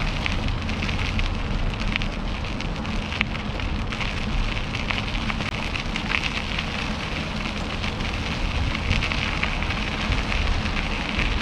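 Riding noise from a mountain bike rolling along a trail: a steady crackling rush of tyres on the trail surface, over a low rumble.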